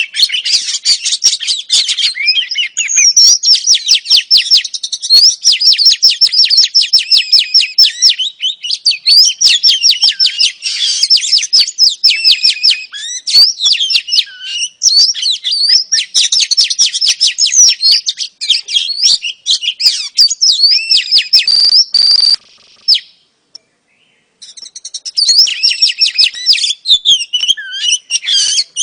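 Female Oriental magpie-robin calling in a long run of rapid, high-pitched chirps and chattering trills, the kind of call used to stir males into song; it breaks off for about two seconds near the end, then resumes.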